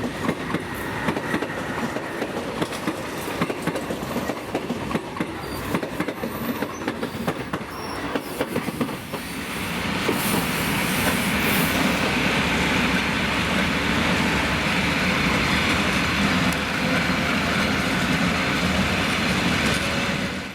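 EGE2Tv Ivolga 4.0 electric train running past, its wheels clattering over rail joints and switches as it crosses from one track to another. About nine seconds in, the sound turns into a louder, steadier rumble and hiss. It cuts off suddenly at the end.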